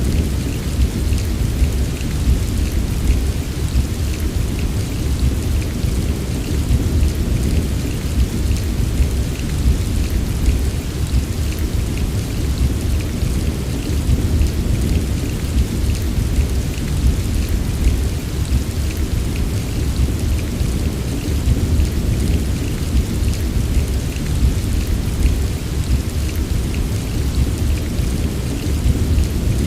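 Steady heavy rain with a deep, continuous low rumble under it, with fine drop patter in the highs.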